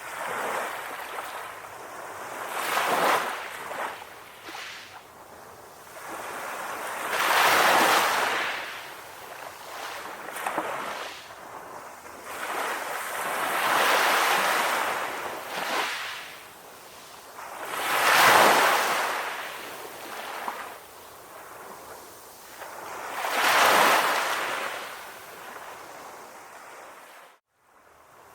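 Sea waves, each swell surging up and washing back about every five seconds. The sound drops out for a moment near the end.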